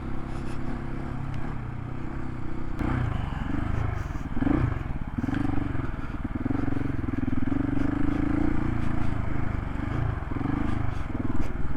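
Single-cylinder adventure motorcycle engine running while riding, its revs rising and falling and louder from about three seconds in. Tyres scrape over a gravel track, with a few sharp clicks of stones.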